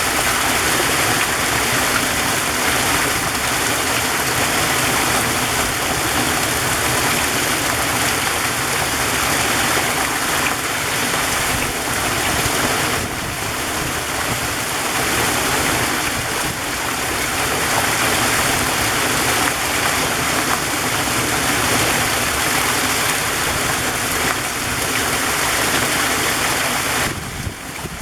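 Waterfall rushing: a steady, dense hiss of falling water that dips briefly near the end.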